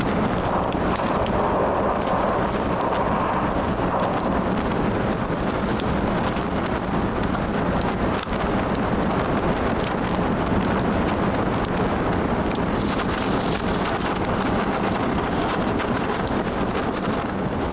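Wood fire crackling, with many small sharp pops over a steady rushing hiss.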